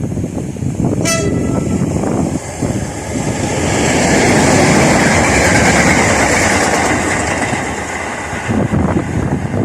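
A train passing at speed: a short horn toot about a second in, then a loud rushing roar that swells to a peak in the middle and fades away.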